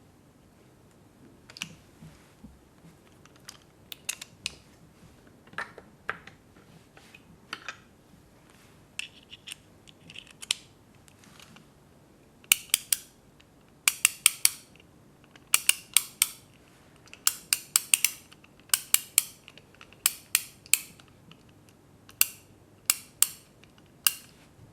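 Sharp clicks and taps of small hard objects being handled, sparse and soft at first, then louder, quicker clusters of two to four clicks from about halfway on.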